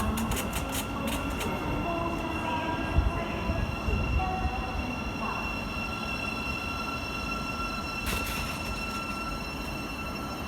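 Train moving through a railway station, with a steady high-pitched squeal and sharp clicks in the first second or so and again about eight seconds in.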